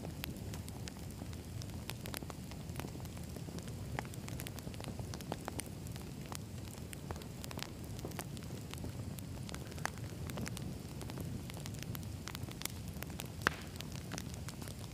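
Wood fire burning, a steady low rumble of flames with irregular sharp crackles and pops of the burning logs; one louder pop near the end.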